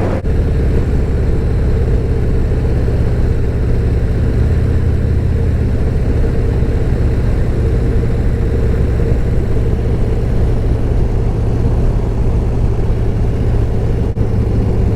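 Harley-Davidson Road Glide ST's V-twin engine running at a steady, even pace, with no revving.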